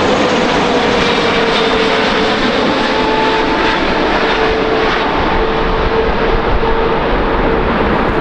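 Jet airliner's engines heard close by, a loud steady noise with a humming tone that slowly drops in pitch.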